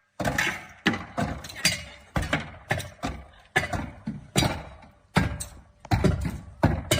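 Irregular series of sharp knocks and bangs, about two a second, each dying away quickly.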